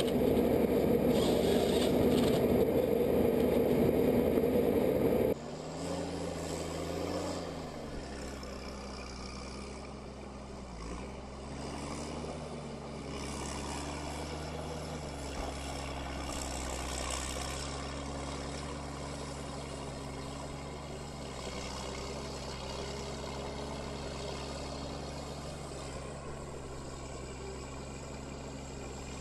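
A loud machine noise that cuts off abruptly about five seconds in, followed by a heavy engine running steadily, its pitch dipping briefly a couple of times.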